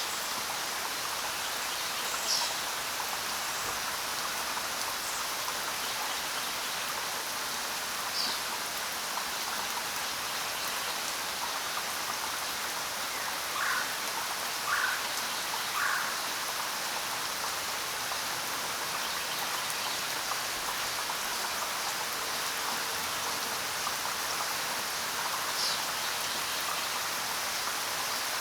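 Steady rain falling, with a few short bird calls over it: single high chirps now and then, and three lower calls about a second apart near the middle.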